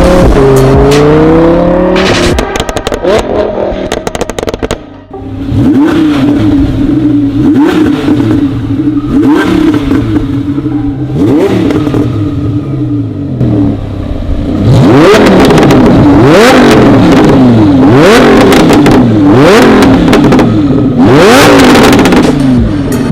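Lamborghini Huracan LP610-4's V10 engine through an Fi aftermarket exhaust, revving hard again and again, its pitch climbing and then dropping back many times over.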